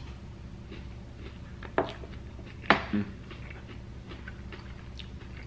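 A man chewing a mouthful of cheese tater tots, with a few sharp smacks or clicks about two and three seconds in over a low steady room hum.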